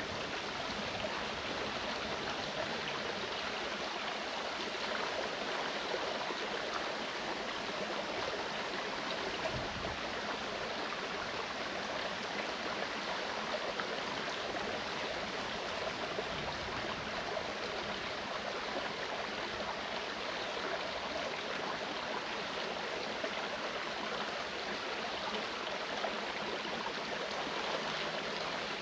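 Clear mountain stream running over rocks, a steady even rush of water.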